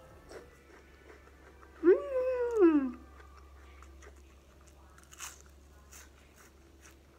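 Crunching bites and chewing of crisp, batter-fried arugula (jirjir) leaves, in faint scattered crunches. About two seconds in, a loud pitched cry about a second long rises and then falls.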